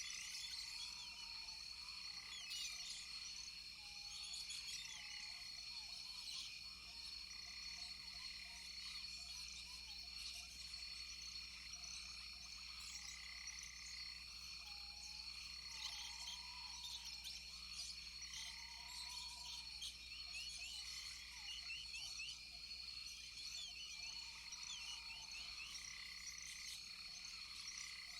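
Frogs calling in chorus: a steady high-pitched trill, a short call repeated about every two seconds, many scattered chirps, and now and then a lower call that rises and falls.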